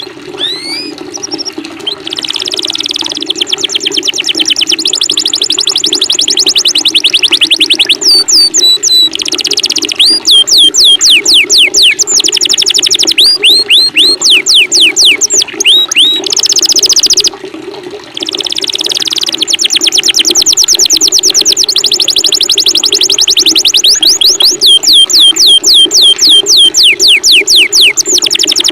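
Songbirds singing long, rapid strings of high, sweeping whistled notes in loud phrases with brief pauses, over a steady low rush of running water.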